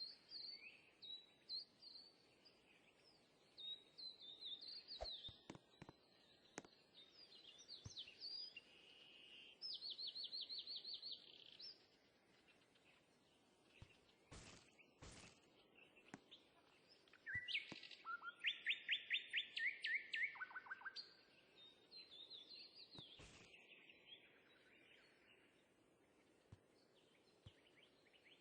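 Small birds chirping and twittering, faint, with short high whistles throughout. A run of quick repeated notes comes about ten seconds in, and a louder, faster trill around eighteen to twenty seconds. A few faint clicks are heard in between.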